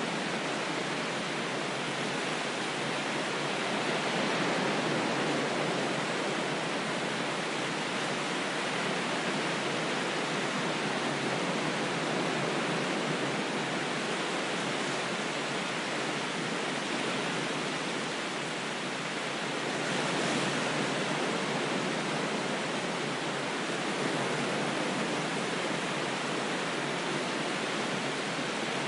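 Ocean waves: a steady, even rush of surf that swells gently a few times.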